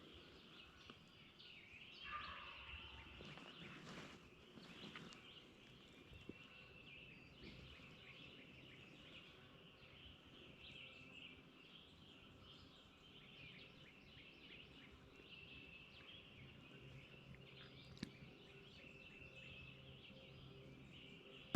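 Quiet spring woods with faint songbird chirping, and a faint, distant wild turkey gobble about two seconds in, falling in pitch.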